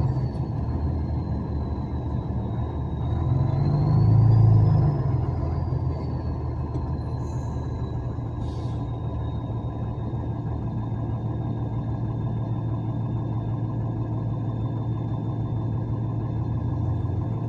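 Truck engine running steadily with a low drone that swells louder for a couple of seconds about four seconds in. A thin high whine wavers slowly in pitch above it.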